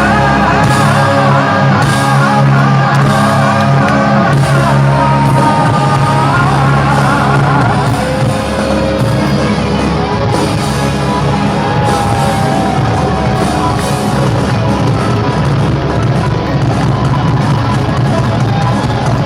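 Live rock band playing loudly in a hall, with sustained guitar and bass notes, drums and cymbals, and crowd shouts mixed in.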